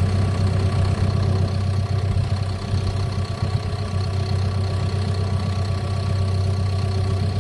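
Caterpillar bulldozer's diesel engine running steadily with a deep, even hum.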